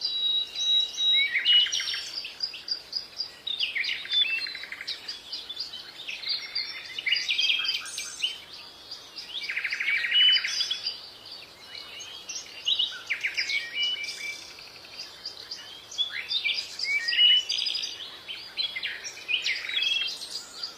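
Several birds singing and chirping at once, a continuous chorus of overlapping calls and rapid trills.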